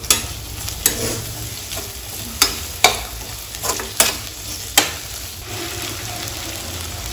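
Sliced tomato and onions sizzling in hot oil in a stainless steel pressure cooker, stirred with a perforated steel ladle. The ladle clinks and scrapes sharply against the pot about six times over the steady sizzle.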